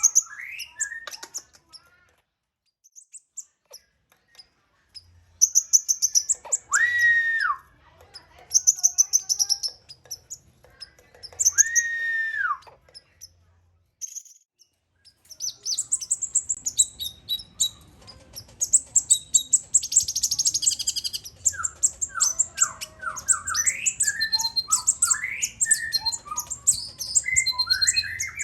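Kolibri ninja (olive-backed sunbird) chirping and singing in rapid, high trills, with a long arched whistle twice near the middle. The song turns into dense, continuous chattering for about the last half.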